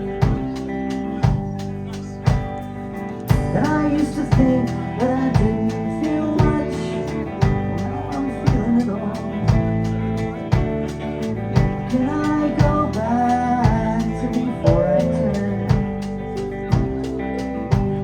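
Live band playing a song: drums keeping a steady beat of about two hits a second under bass, guitar and keyboards, with a melodic line bending in pitch at several points.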